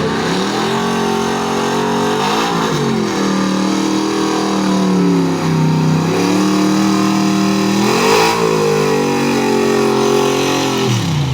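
A pulling truck's engine runs hard under load. Its pitch holds steady with a few shifts up and down and falls away near the end as the run ends.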